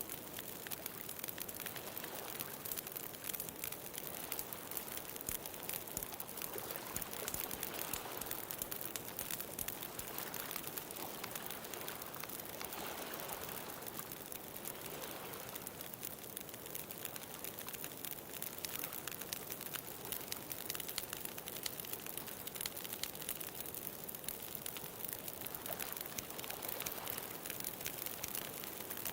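Wood bonfire crackling with a steady stream of small pops, over a wash of ocean waves that swells and fades every few seconds.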